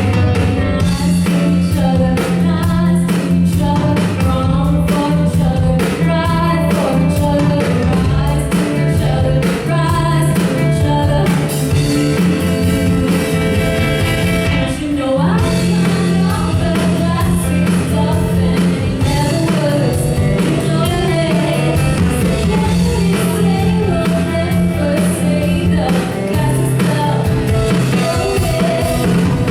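Live band playing a song, with a singer over steady bass notes and a full accompaniment.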